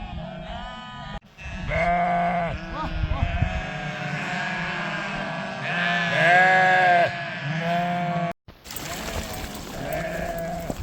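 A flock of sheep bleating, many overlapping wavering calls, with two brief dropouts about a second in and near the end.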